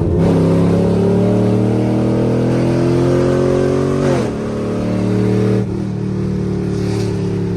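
A car engine with a loud exhaust accelerating hard, its pitch climbing for about four seconds, dropping at a gear change, climbing briefly and dropping again, then running steadily.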